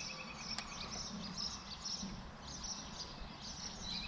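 Songbirds chirping in a quick series of short high calls, with a rapid trill in the first second, over a faint low rumble.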